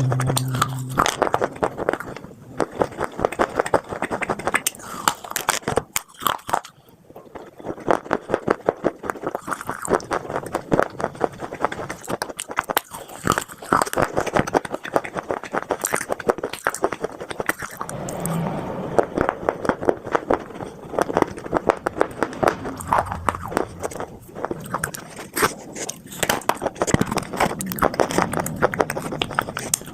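Close-up biting and chewing of dry edible clay (khawa clay shapes and broken red clay pieces), a dense run of quick crunching cracks, with a brief lull about six seconds in.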